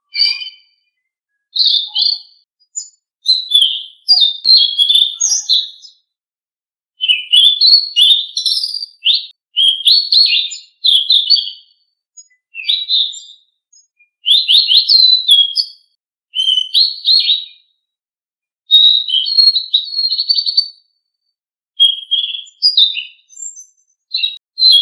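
Song of the bird known to Indonesian birdkeepers as selendang biru, played as a masteran training recording: loud, rapid high chirps and whistled trills in phrases of one to two seconds, repeated with short pauses between them.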